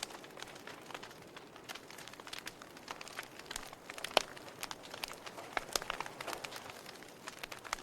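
Wood fire crackling in a fireplace: irregular sharp pops and snaps over a soft hiss, the loudest pop a little past four seconds in.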